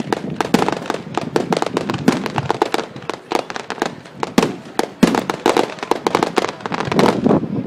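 Fireworks going off in rapid succession: a dense barrage of sharp bangs and crackles, many to the second, some of them echoing.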